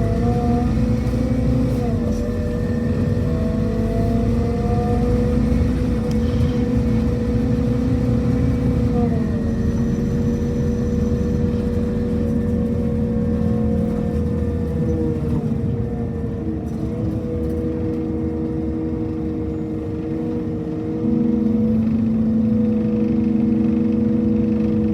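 Scania K230UB city bus engine and drivetrain running under way with a loud, steady, screaming whine that holds its pitch. The pitch shifts slightly twice, and the sound gets louder about 21 seconds in.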